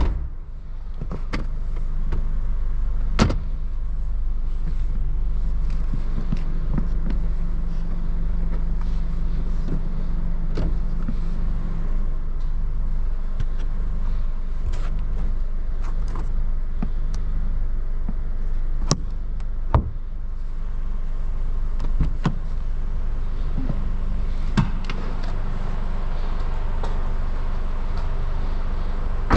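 2023 Subaru BRZ's 2.4-litre flat-four idling steadily, with a dozen or so short clicks and knocks scattered through it.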